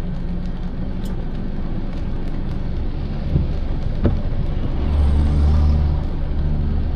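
Car on the move: a steady road and engine rumble that deepens and grows louder for a second or two past the middle, with a few sharp ticks.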